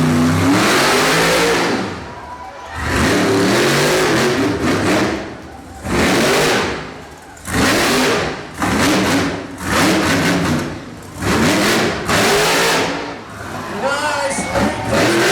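Monster truck engine revving hard in a series of about eight throttle bursts, each a second or two long, dropping away between them as the throttle lifts.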